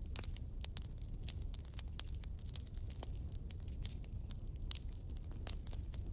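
Campfire crackling: burning wood giving off frequent, irregular sharp pops and snaps over a steady low rumble.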